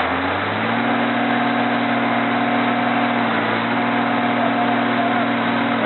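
A vehicle engine running at steady revs, its pitch stepping up slightly about half a second in and then holding.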